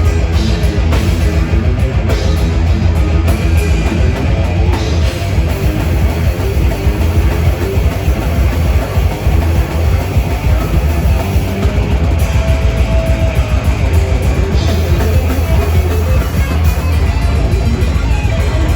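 Heavy metal band playing live: distorted electric guitars, bass and a pounding drum kit, loud and continuous with no vocals, as recorded from the audience.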